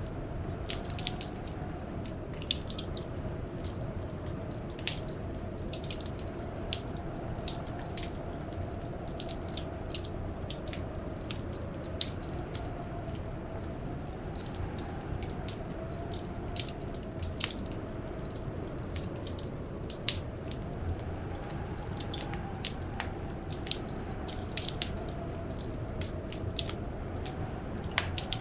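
Wood fire crackling in a fireplace: many sharp, irregular pops and snaps over a steady low rush, with a faint wavering whistle underneath.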